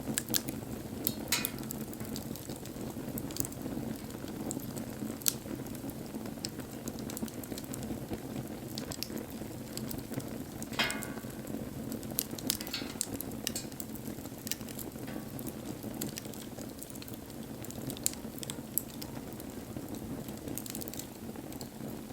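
Wood fire burning: a steady rush of flames with sharp crackles and pops scattered throughout, one louder pop about eleven seconds in.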